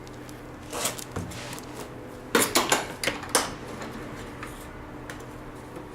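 Steel hand tools clinking and rattling as wrenches are handled, with a few light clicks and then a quick run of sharp metallic clinks about two and a half seconds in.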